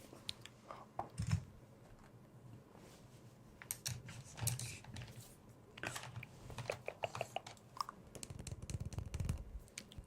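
Soft, scattered clicks and taps of plastic makeup items and brushes being handled, coming more often in the second half.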